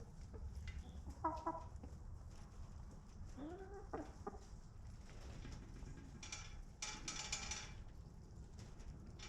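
Domestic chickens clucking in a coop: a few short calls, then a longer, louder squawk about six seconds in, over a steady low rumble.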